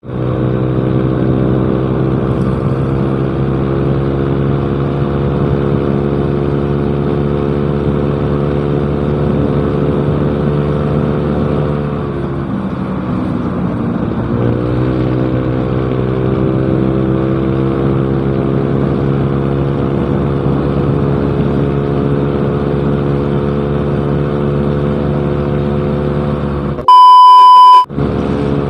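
Yamaha Mio Smile scooter's single-cylinder engine running steadily through a cheap aftermarket exhaust, its speed sagging and then recovering about halfway through. Near the end the engine sound cuts out for about a second and a loud beep tone sounds.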